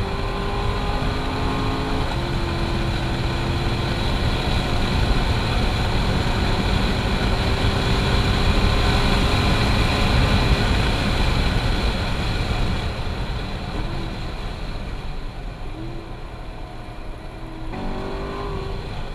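Chevrolet C7 Corvette Grand Sport's 6.2-litre V8 pulling hard under throttle, heard from inside the cabin. The revs climb, drop back once about two seconds in as the automatic upshifts, then rise slowly and grow louder for several seconds. Past the middle the engine note eases off, leaving mostly road and wind noise.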